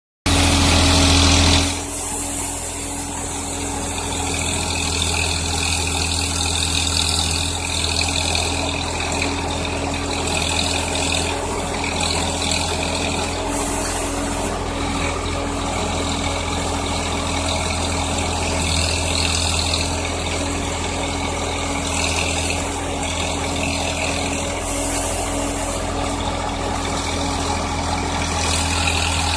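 Swaraj 960 tractor's diesel engine running steadily, louder for the first couple of seconds and then settling to an even level.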